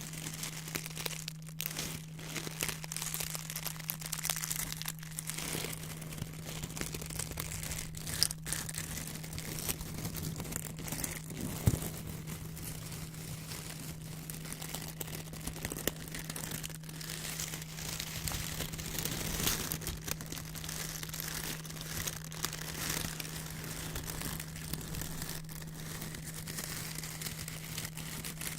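White paper handled close to the microphone, crinkling and rustling continuously, with a few sharp clicks, over a low steady hum.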